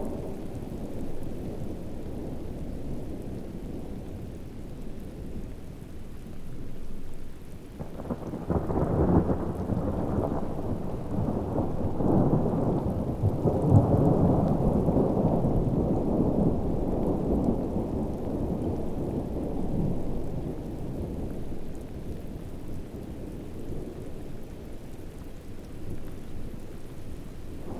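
Heavy rain with a thunderstorm: a steady low rumble that swells into a long roll of thunder about eight seconds in, loudest about halfway through, then dies back down to the rain.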